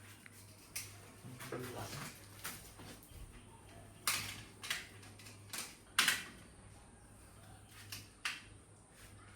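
Irregular sharp clicks and knocks of tools and fittings being handled, about nine in all, the loudest a little past the middle, over a faint steady low hum.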